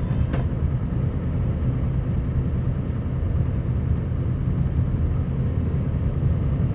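Scania R560 truck's V8 diesel engine running steadily under load while plowing snow, a constant low rumble.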